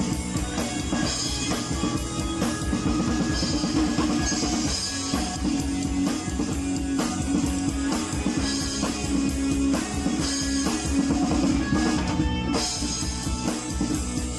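Instrumental rock music: a drum kit keeping a steady beat under guitar, with no vocals.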